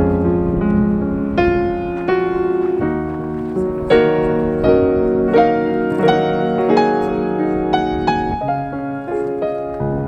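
Background piano music: a slow melody of struck notes over sustained chords.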